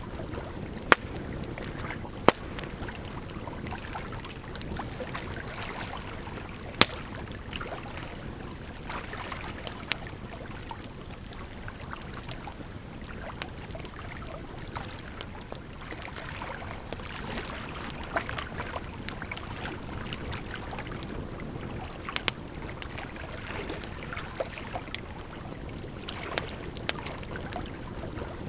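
Burning firewood crackling, with single sharp pops every few seconds, over a steady rush of flowing water.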